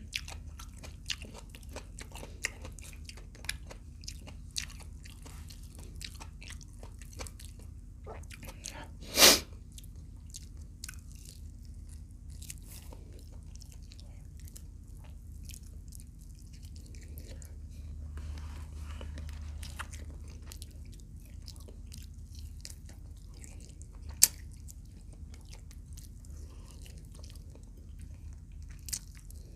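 A person chewing and biting fried adobo quail close to the microphone, with frequent small crunches. One much louder sharp sound comes about nine seconds in.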